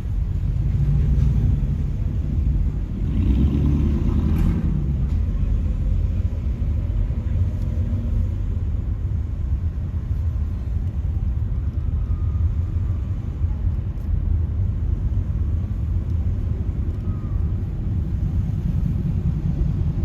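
Steady low rumble of road traffic and car engines, with a louder swell about three seconds in.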